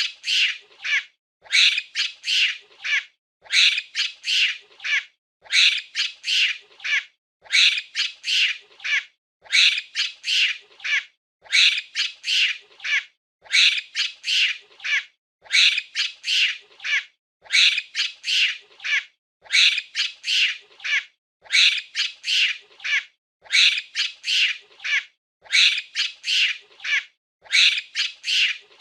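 A monkey giving short, high screeching calls in quick groups of about three, the groups repeating at an even pace about every two seconds.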